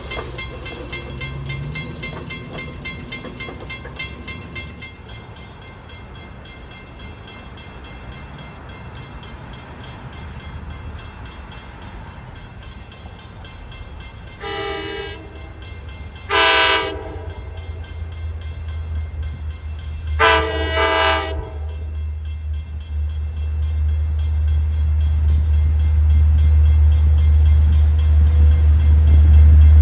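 Long Island Rail Road diesel locomotive approaching. Its multi-tone horn sounds three blasts about halfway through, the last one the longest, then a low engine rumble grows steadily louder as the train nears.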